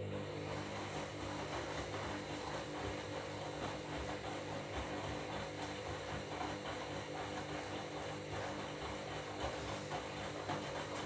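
Washing machine running a wash tumble with bed linen: the motor hums steadily as the drum turns the wet load over, then winds down about half a second after the end.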